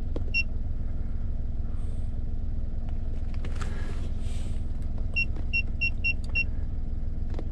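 Daihatsu car engine idling with a steady low hum, heard inside the cabin, over short high beeps from an Autek iFix969 OBD2 scan tool as its arrow buttons are pressed: one beep near the start, then six in quick succession about five seconds in.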